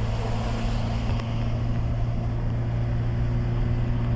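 Vehicle running steadily: a constant low engine drone with road noise.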